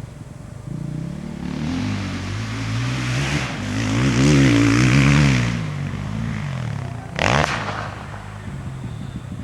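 Motocross motorcycle engines running on the track. One bike's engine revs up and down as it comes near and goes past, loudest about four to five seconds in, followed by a short sharp rev about seven seconds in.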